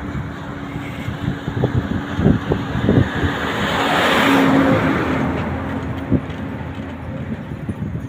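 Loaded Hino truck with an H07D diesel engine running on the road with a steady hum and scattered knocks and rattles. A rush of noise swells and fades around the middle.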